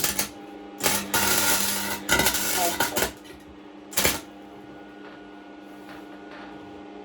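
MIG welder arcing in short bursts on a steel pit bike frame: a brief burst at the start, a longer run of about two seconds broken once, and a last brief burst about four seconds in, over the welder's steady hum. At this heat setting the weld blows through the thin frame metal.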